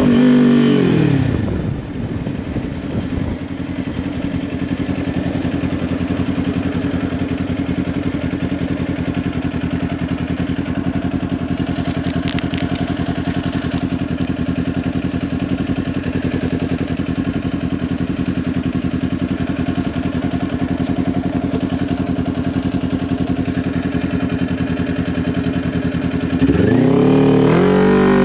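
Kawasaki Ninja 400's parallel-twin engine through a Leo Vince LV10 exhaust: the revs fall over the first couple of seconds, then it idles steadily. About a second and a half from the end it revs up quickly, dips and climbs again, as on acceleration through a gear change.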